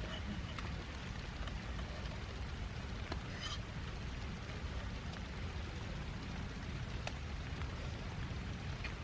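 Heavy rain falling steadily, a dense hiss with a deep low rumble, with scattered individual drops tapping close by.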